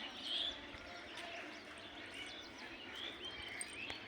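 Small birds chirping, many short high calls overlapping over faint background noise.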